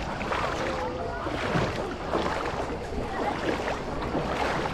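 Busy pebble-beach ambience: many people's voices talking and calling some way off, mixed with water splashing and lapping.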